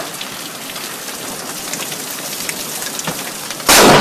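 Heavy rain falling steadily, then near the end a sudden, very loud crack of thunder from a close lightning strike.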